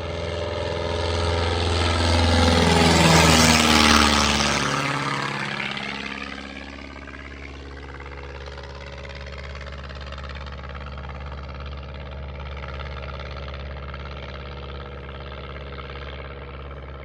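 Light airplane's engine and propeller passing close, loudest about three to four seconds in, its pitch dropping as it goes by. A steady engine drone follows.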